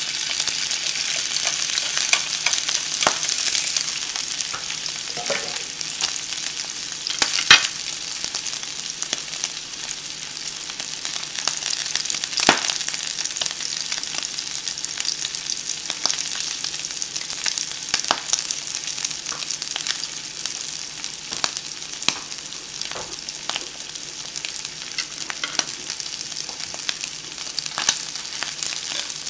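Shrimp and sliced onion sizzling in hot oil in a nonstick skillet, a steady hiss broken by scattered sharp pops of spattering oil, the strongest about seven and twelve seconds in.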